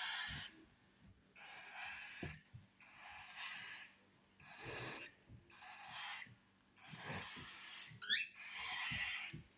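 Baby cockatiel chicks giving their raspy, hissing food-begging calls, a run of about eight bursts roughly a second apart, with a short rising chirp near the end.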